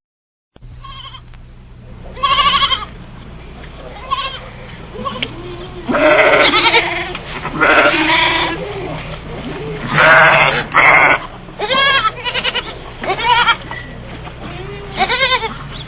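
Goats bleating: a series of about a dozen quavering bleats, some higher-pitched and some lower, over a steady low hum.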